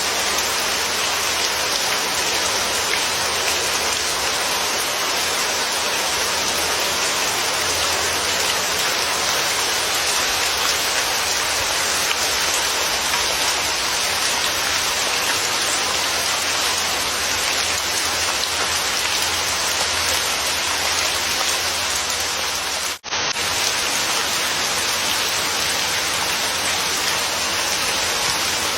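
Steady rain falling, a dense even hiss of many drops. About three quarters of the way through it drops out for a split second and comes straight back.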